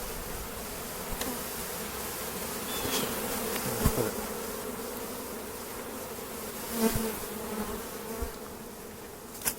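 A mass of honeybees buzzing steadily around an opened, very strong hive. A few short knocks come about 4, 7 and 9.5 seconds in.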